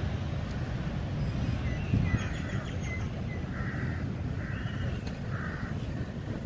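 A bird calling four times, short harsh calls about a second apart from about two seconds in, with a few faint higher chirps, over a low steady rumble.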